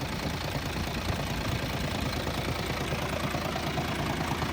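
International truck's Navistar diesel engine idling steadily, a fast even low clatter.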